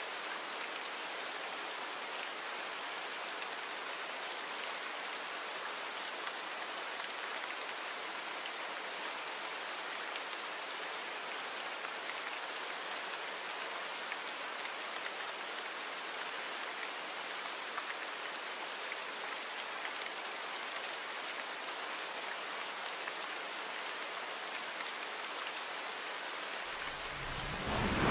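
Steady rain falling, an even hiss of drops. Near the end a low rumble of thunder starts to build.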